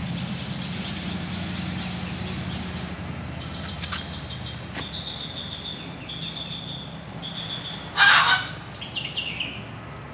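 Garden birds calling: thin, repeated high chirps from a small bird starting about three and a half seconds in, and one short, loud, harsh call about eight seconds in, over a low steady hum that fades after the first few seconds.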